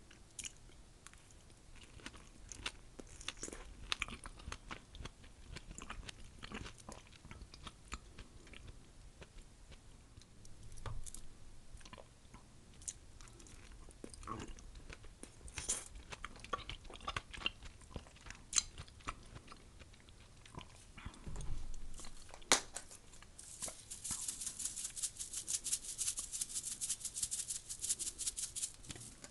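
Close-miked wet chewing and biting of ripe mango wedges coated in Tajín chili-lime seasoning, with short sharp mouth sounds. Near the end comes a dense, rapid patter of Tajín being shaken from its bottle onto the wooden tray.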